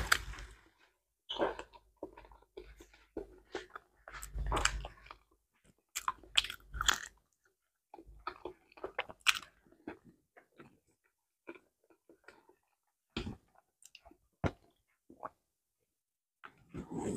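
Close-miked chewing of soft banana: wet mouth smacks and clicks at irregular intervals. Near the end come sips and swallows of water from a glass.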